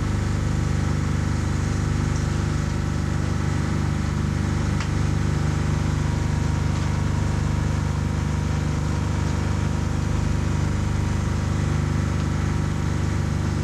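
Steady low engine drone with an even hum, running unchanged throughout.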